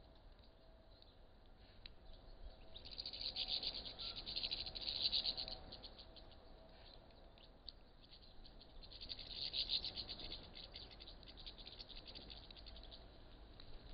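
A flock of small birds twittering under a bird feeder, in two spells of dense, rapid high chirping: one about three seconds in and another about nine seconds in.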